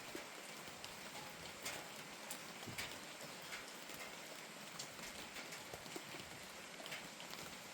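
Steady rain falling, with heavier drops tapping at irregular moments.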